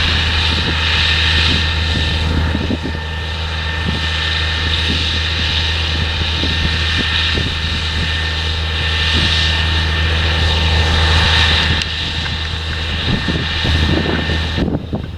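Diesel engine of heavy potato-harvesting machinery running steadily under load, a deep hum with irregular rattles and knocks over it. The higher hiss cuts out suddenly near the end.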